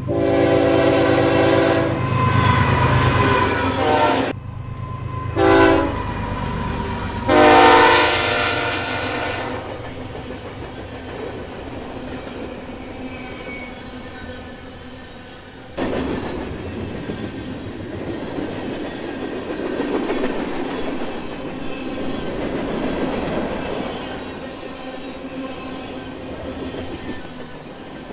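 Diesel freight locomotive air horn sounding a chord in the grade-crossing pattern: two long blasts, a short one, then a long one. From about sixteen seconds a steady rumble of a freight train rolling past on the rails follows.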